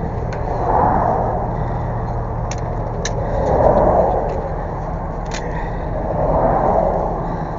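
Road traffic passing in swells every two to three seconds over the steady idle of a truck engine, with a few light clicks.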